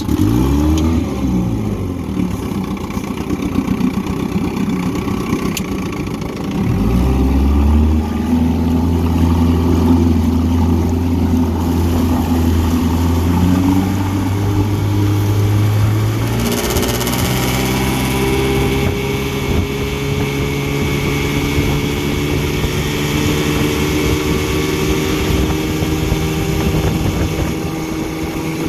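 1959 Evinrude Sportwin 10 hp two-cylinder two-stroke outboard motor catching at once and revving up, then running steadily. About seven seconds in it gets louder and deeper, and at about sixteen seconds louder again, its pitch then slowly rising as it speeds up.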